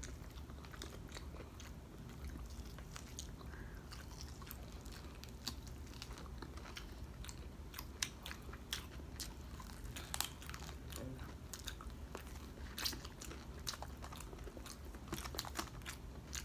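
Close-up chewing and biting of crispy breaded fried pork chop, with irregular crunches and crackles of the crust throughout, over a steady low hum.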